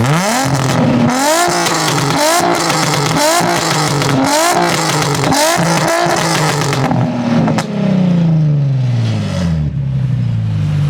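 A car engine revved through its exhaust in quick blips, about one a second, each rising and dropping back. It is then held high once more and falls slowly back to a steady idle near the end.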